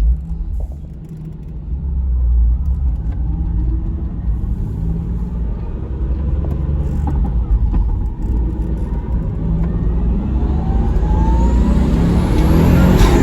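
Toyota Supra's twin-turbo 2JZ-GTE straight-six pulling under acceleration, jumping up in level about two seconds in and building from there, with a rising whine near the end.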